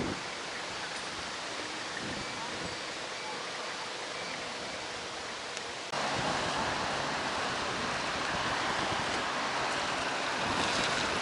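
Steady rushing of wind over the microphone, which turns suddenly louder and harsher about six seconds in.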